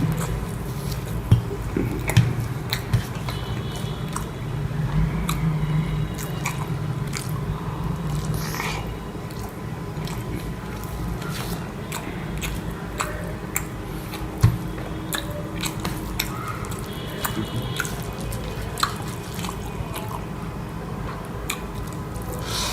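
A person eating rice and egg curry up close: chewing and wet mouth sounds with many scattered small clicks, over a steady low hum.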